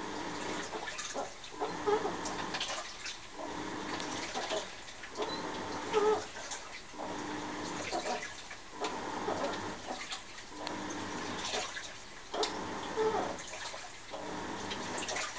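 Washing machine on its wash cycle: the drum agitates with water sloshing and a motor whine, pausing briefly about every two seconds as it reverses direction.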